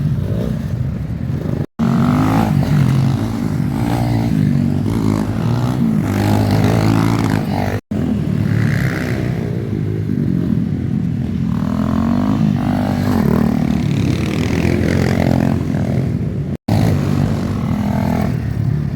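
Motocross bike engines running and revving, cut off abruptly three times, at about two, eight and seventeen seconds in.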